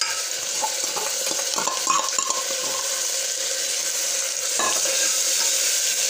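Ginger-garlic paste sizzling in hot oil with fried onions in a pressure cooker, with a steel spoon scraping and clicking against the pot as it is stirred, mostly in the first couple of seconds.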